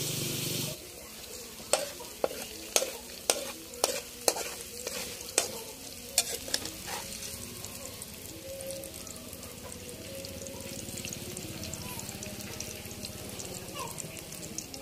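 Julienned ginger sizzling as it is stir-fried in a wok. A loud sizzle drops off abruptly about a second in. A metal spatula then clacks and scrapes against the pan about a dozen times, and a quieter, steady sizzle carries on.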